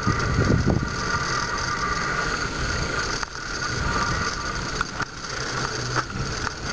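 Steady noise of a bicycle ride on a road: tyre and drivetrain noise, with a low rumble of wind on the microphone that is strongest in the first second.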